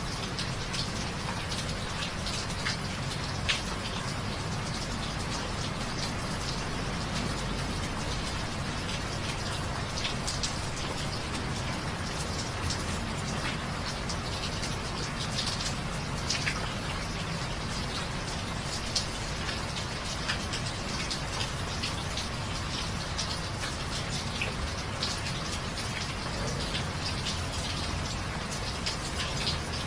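Steady rain falling, with many scattered sharp drop ticks through it.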